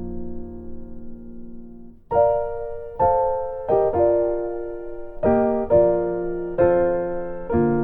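Background music of a solo piano. A held chord fades away, then fresh chords are struck about once a second, each ringing and dying down.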